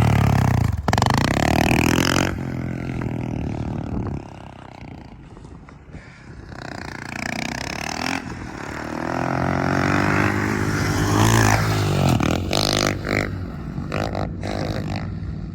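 Dirt bike engine revving and pulling through the gears. It is loud at first, falls away about four to six seconds in, then builds again to its loudest about eleven seconds in before easing off.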